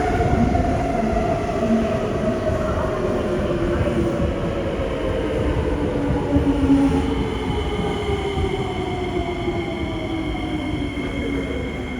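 A C151A metro train's Fuji Electric IGBT-VVVF traction motors whining as it brakes into the station, the pitch falling steadily over the rumble of the wheels. About seven seconds in, steady high inverter tones set in as the train slows.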